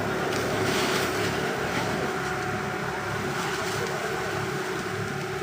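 A motor vehicle's engine runs steadily with a constant hum, mixed with road and wind noise.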